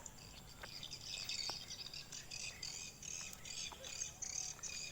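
Swiftlets twittering: a fast, dense run of high chirps that starts about a second in and keeps going.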